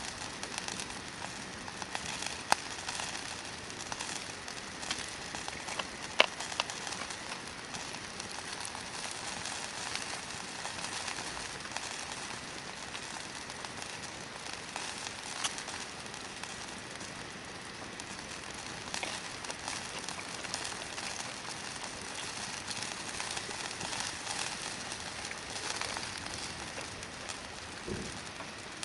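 Hardwood campfire burning with a steady hiss and constant fine crackling, and two sharp, louder pops from the wood a few seconds apart.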